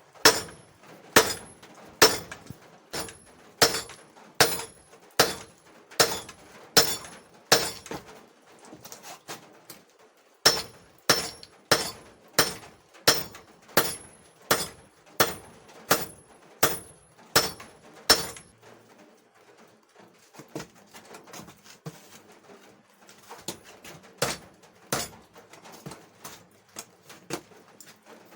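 Hand hammer striking hot steel on an anvil in forging, with the anvil ringing after each blow. Steady blows come a little over one a second, break off about eight seconds in, and resume in a second run. After about eighteen seconds there are only lighter, scattered taps and one more hard blow.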